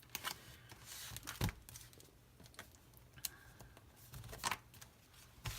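Paper planner stickers being handled: sticker sheets rustling and crinkling, a sticker peeled off its backing with a short tearing sound, and scattered light clicks and taps as it is pressed down.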